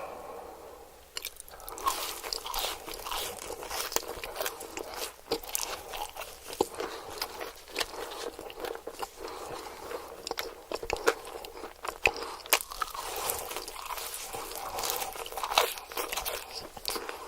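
Close-miked eating: a person biting and chewing crunchy food, with rapid, crisp crunches that start about a second in.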